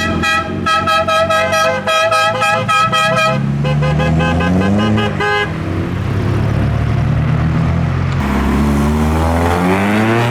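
A car horn sounding in a rapid run of toots for about three seconds, then a car engine revving up as the car accelerates away, its pitch rising twice.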